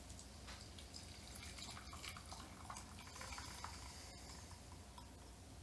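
Faint trickle of liquid being poured, with a few small clicks.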